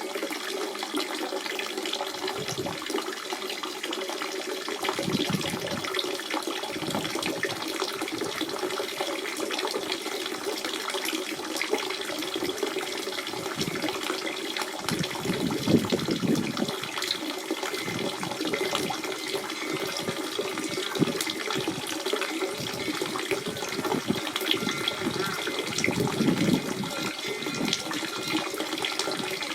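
Natural spring water running and gurgling steadily, with bubbling swells now and then.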